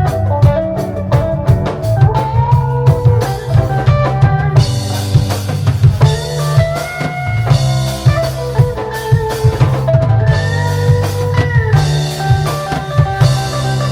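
A reggae band playing live with no vocals: drum kit with rimshots and kick drum, a steady bass line, and sustained keyboard or guitar chords entering about five seconds in.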